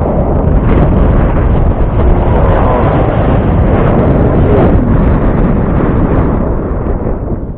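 Strong wind buffeting the microphone in a steady loud rumble. A faint whine that rises and falls in pitch shows through about halfway in, fitting the electric motor of a foam RC plane flying overhead.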